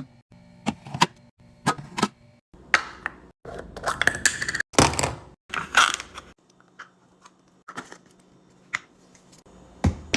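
Packaging and containers handled during restocking: a series of sharp clicks and taps, about three seconds of rustling and crinkling in the middle, then a few more light taps.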